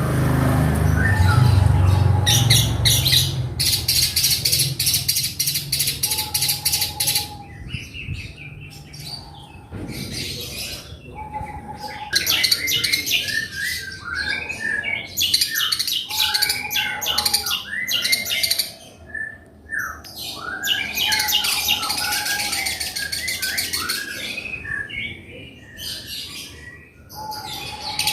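Long-tailed shrike (cendet) singing: fast strings of high chirps and rattles run together with short falling notes, its song full of calls copied from other birds. A short, steady whistle-like note comes back every few seconds.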